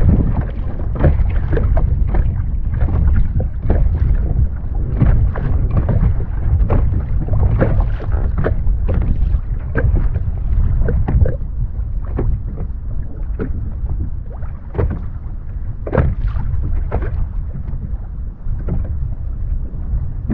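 Water splashing and slapping around a kayak in frequent irregular splashes, over a steady low rumble of wind on the microphone.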